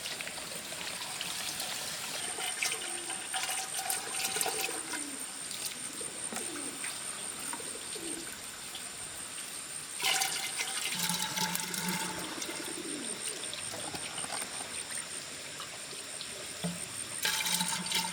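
Water trickling and splashing, as of dishes being washed by hand, with bird calls and a steady high-pitched pulsing tone. There are short louder bursts about ten seconds in and again near the end.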